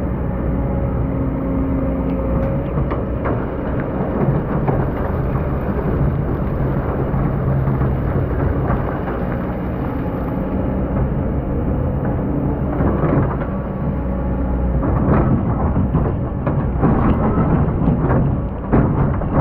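Hydraulic excavator's diesel engine running steadily, its note shifting as the load changes. Scattered knocks and scrapes come from the machine working the sand and grow more frequent in the last third.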